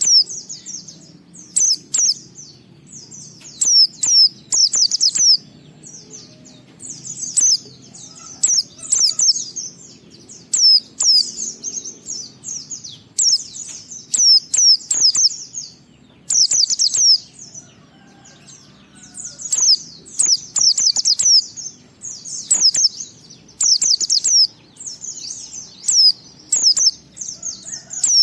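A white-eye (pleci) singing: rapid, high twittering phrases about a second long, repeated with short pauses every second or two, in the continuous "ngalas" style that keepers play to get other white-eyes singing.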